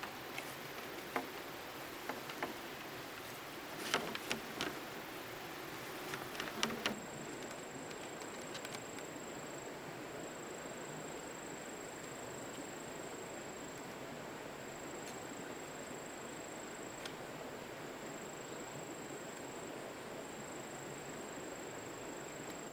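A few light clicks and knocks over a steady outdoor hiss, then, about seven seconds in, a steady high insect buzz starts and carries on with brief breaks.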